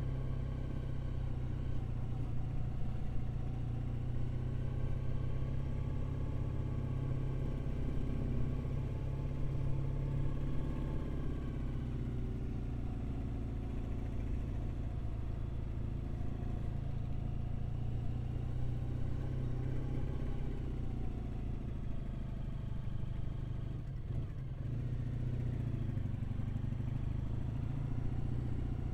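Triumph Bonneville parallel-twin motorcycle engine running steadily under way, its note rising and falling gently as the speed changes.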